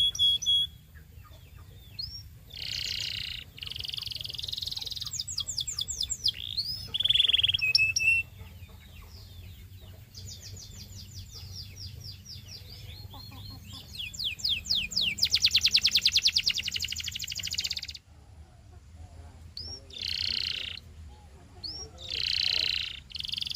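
Domestic canary singing: phrases of fast repeated trill notes and rolls with short pauses between them, the loudest a long, very rapid trill a little past the middle.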